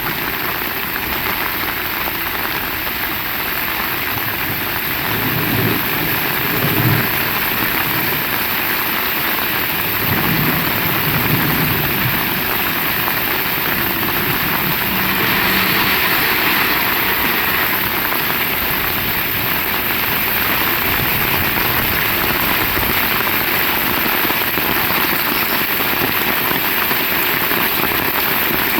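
Heavy rain falling steadily, pattering on surfaces. Twice, a low rumble rises under the rain, about five and ten seconds in.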